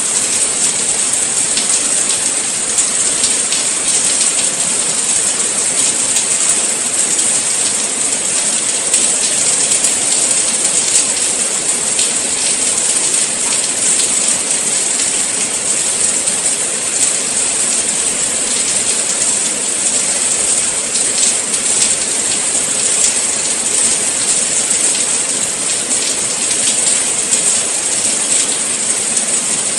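Steady rain falling, a dense even hiss with scattered faint patters of drops.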